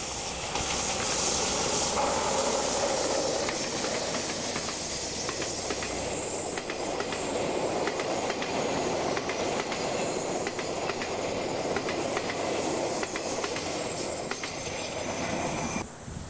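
Train passing on the line, its wheels clicking over the rail joints amid a steady rushing noise. The sound cuts off suddenly near the end.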